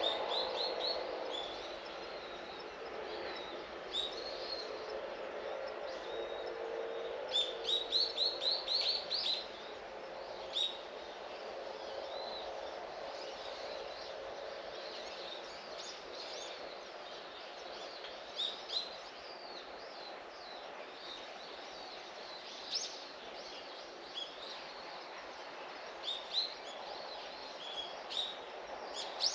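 Small birds chirping, with scattered short calls and quick runs of rising notes, the longest run about eight seconds in. Underneath is a steady background hum.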